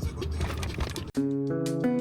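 A low rumble with background noise, cut off abruptly about a second in by guitar music with held, strummed chords.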